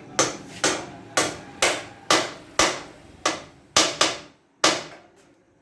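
Hammer blows: about ten sharp strikes, roughly two a second, each with a short ring, then stopping.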